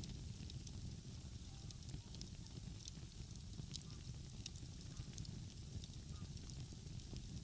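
Wood fire crackling, with frequent sharp pops and snaps, over a steady low rumble.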